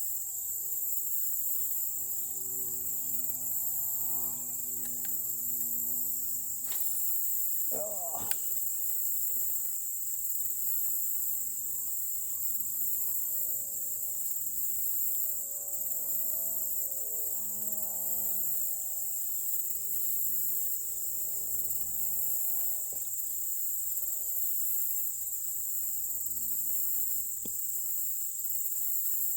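Steady, high-pitched insect chorus droning without a break, with faint low pitched sounds shifting underneath.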